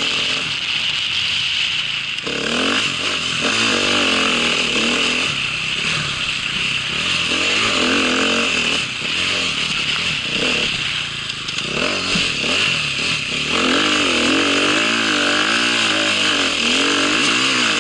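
A small vehicle engine running, its pitch rising and falling repeatedly as it revs up and down, over a steady high whine.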